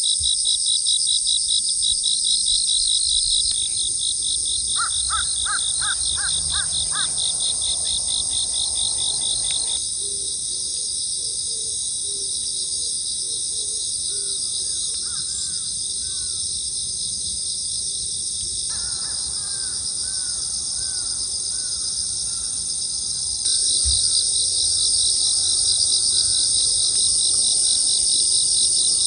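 A dense chorus of insects chirring steadily and high-pitched, pulsing rapidly in the first few seconds and again near the end. It changes abruptly several times, and a run of short repeated animal calls comes in about five seconds in and again past the middle.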